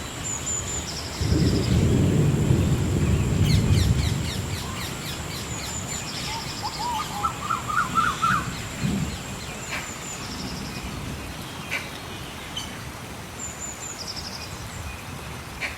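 Gentle rain falling steadily while birds sing: a short high call repeated every few seconds and a quick run of rising chirps near the middle. A loud low rumble comes in about a second in and fades after a few seconds.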